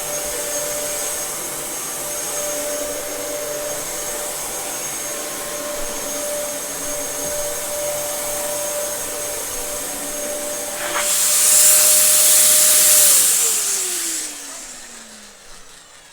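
Dyson DC07 bagless upright vacuum cleaner running steadily. About eleven seconds in there is a click and a loud hiss for about three seconds. Then the motor is switched off and winds down, its pitch falling.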